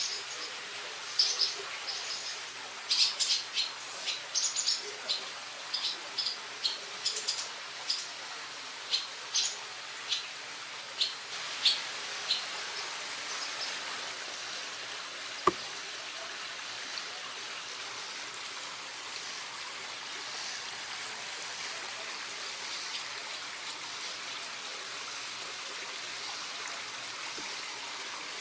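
Baby birds in a nest chirping, short high chirps in quick irregular runs that die away about halfway through. A single sharp click follows, then only a steady outdoor hiss.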